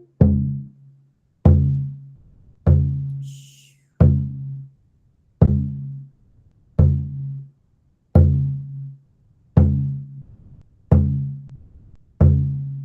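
A deep hand drum struck in a slow, steady beat, about one stroke every second and a half, each stroke ringing and fading before the next.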